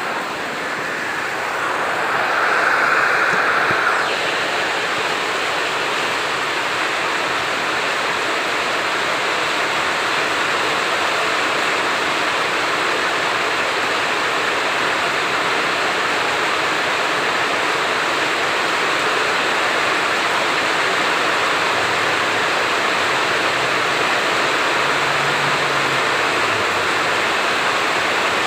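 Heavy rain falling steadily in a dense, even hiss, swelling louder for a couple of seconds near the start.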